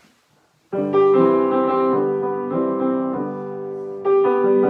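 Piano playing held chords, starting after a brief silence less than a second in, with a new chord struck every half second to a second.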